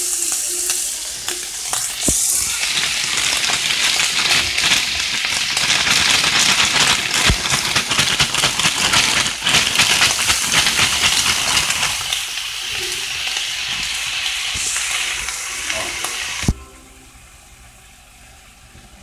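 Diced pork and vegetables sizzling in hot sesame oil in a wok: a loud, steady hissing sizzle that cuts off suddenly near the end.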